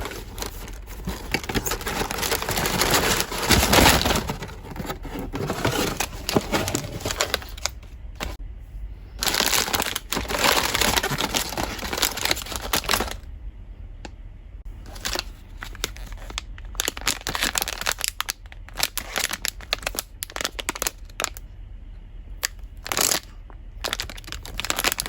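Blind-box packaging being handled and opened, crinkling and rustling in two long stretches, followed by scattered short clicks and taps.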